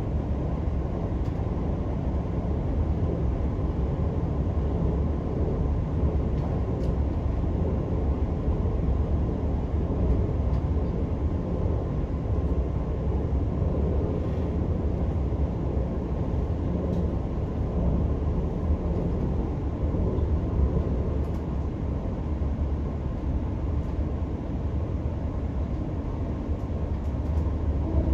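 Steady low rumble of a moving electric passenger train, heard from inside the carriage as the wheels run on the rails, with a few faint clicks now and then.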